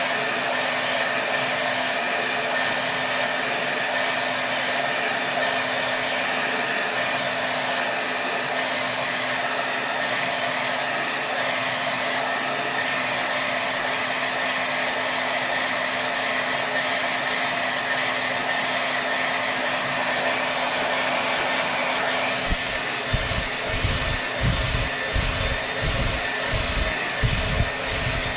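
Hair dryer blowing at its maximum setting: a steady, full rush of air with a constant motor whine. About three-quarters of the way through, an irregular low rumble starts to come and go in gusts under the steady blow.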